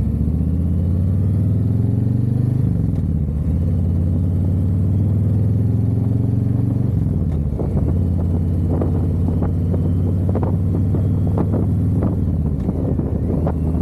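Harley-Davidson V-twin motorcycle engine accelerating through the gears. Its pitch climbs, drops at a shift about two and a half seconds in, climbs again and drops at another shift about seven seconds in, then holds steady as short gusts of wind noise buffet the microphone.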